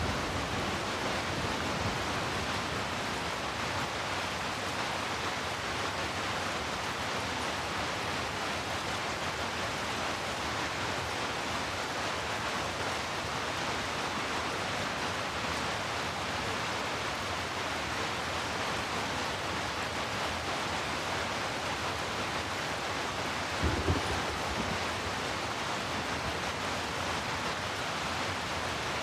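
Steady rain, an even, unbroken hiss, with a brief low rumble about three quarters of the way through.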